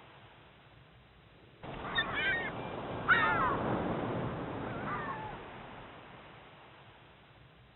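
Waves crashing on a shore with birds squawking: a wave surges in about a second and a half in and slowly dies away, with several short squawks over it.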